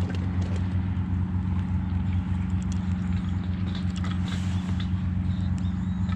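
Steady low hum of an idling engine, with scattered faint clicks and crackles over it.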